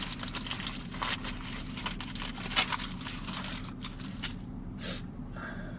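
Crinkling and crunching from eating corn dogs close to the microphone, a dense run of small crackles that thins out near the end, over a steady low hum.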